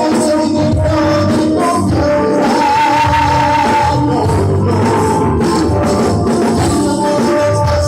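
Live pop band music with singing, played loud and steady through the whole stretch.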